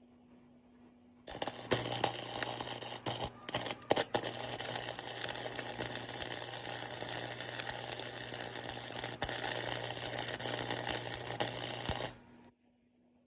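Harsh, steady hissing crackle of metalworking on the steel air filter basket. It starts about a second in, stutters off and on a few times around three to four seconds, then runs on steadily and stops shortly before the end.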